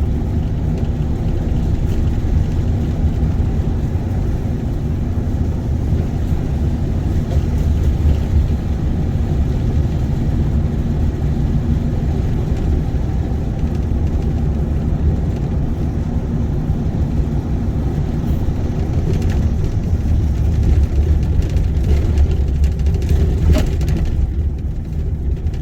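Vehicle driving on a road, a steady low engine and road rumble heard from inside the cab, with a few light rattles or clicks near the end.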